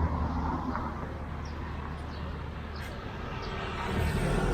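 Street traffic ambience: a steady low rumble of vehicle engines, with a deeper, louder engine sound building near the end as a heavier vehicle draws close.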